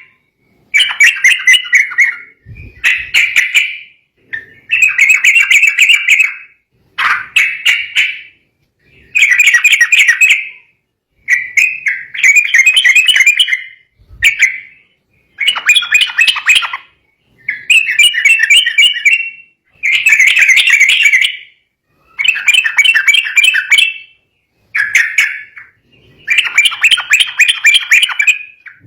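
Yellow-vented bulbul giving its agitated, fighting song: loud bursts of rapid chattering notes, each a second or two long, repeated about a dozen times with short pauses between.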